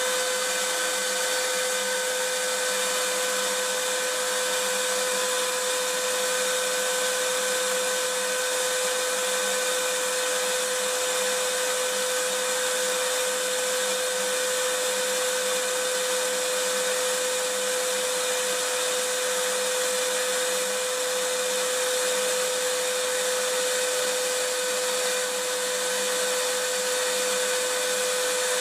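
Vacuum cleaner running steadily: an even, unchanging whoosh of air with a constant motor whine, high-pitched, with little bass.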